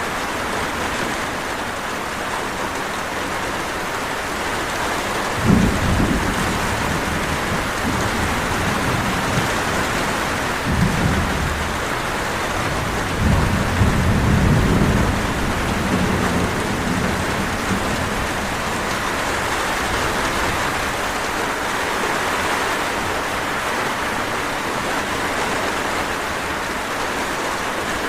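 Steady heavy rain hissing, with thunder rumbling in: a sharp crack about a fifth of the way in, another roll a little later, and a longer rolling peal around the middle.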